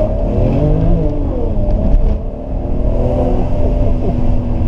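BMW 335i's turbocharged straight-six, through an AC Schnitzer rear silencer, heard from inside the cabin, pulling hard under throttle. The engine note rises, falls back with a brief dip about two seconds in, then climbs again and holds steady.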